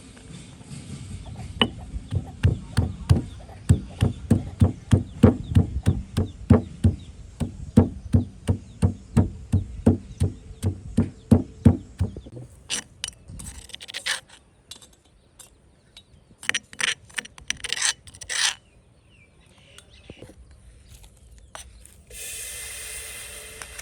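Knife chopping food on a cutting board in a steady run of knocks, about three a second, that stops about halfway through. A few scraping strokes follow, and a steady hiss starts near the end.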